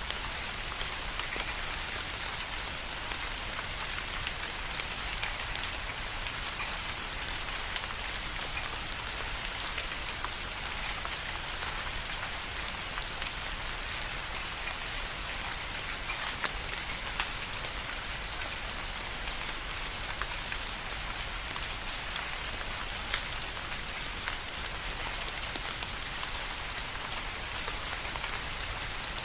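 Steady rain falling, a constant hiss with many distinct drops pattering on a surface.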